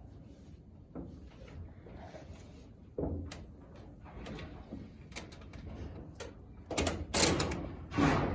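Handling noises from work in a shop: scattered clicks and light knocks, a thump about three seconds in, and two louder rasping noises near the end.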